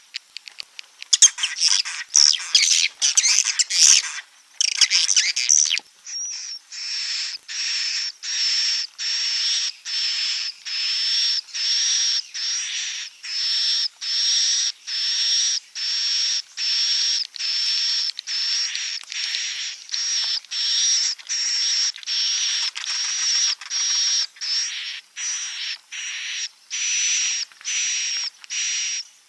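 Recorded edible-nest swiftlet roosting call ('suara inap'), the kind of track played to lure swiftlets into a nesting house. A few seconds of dense, overlapping chirping give way to short, buzzy chirps repeated evenly, a little under two a second.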